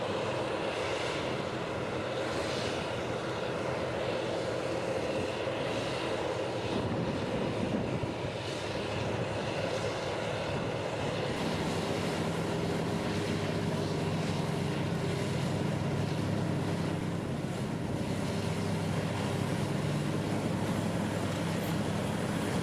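Diesel engines of Komatsu D575 superdozers running steadily as the dozers push earth, a continuous heavy drone. About halfway through the engine tone grows stronger and deeper.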